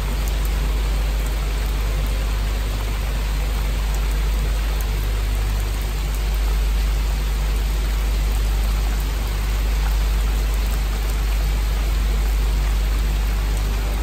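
Steady rain falling on the sea and on a catamaran's deck and rails, with a steady low rumble of wind underneath.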